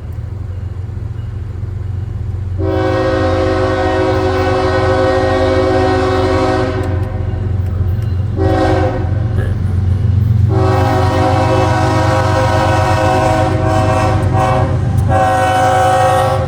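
Diesel locomotive air horn sounding a crossing sequence: a long blast, a short one, another long one and a closing short one, over the steady low rumble of the approaching freight train.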